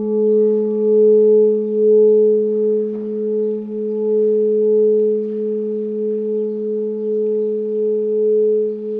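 Crystal singing bowls sounding together: a steady low tone under a higher tone that swells and wavers in loudness, with a faint higher overtone. A faint light tap comes about three seconds in.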